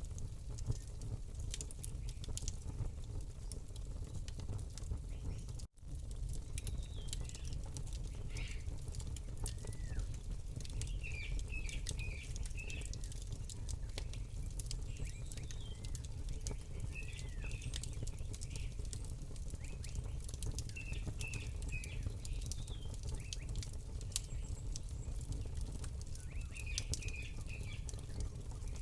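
Campfire crackling with many sharp pops over a steady low rumble, with small birds chirping in short repeated calls from about seven seconds in. The sound cuts out for an instant just before six seconds.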